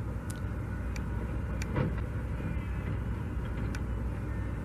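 Steady low rumble of motor vehicle engines, with a few faint short ticks.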